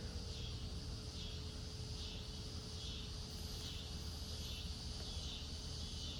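Chorus of singing insects, taken for crickets: a high, shrill trilling that swells and fades a little more than once a second, over a low rumble.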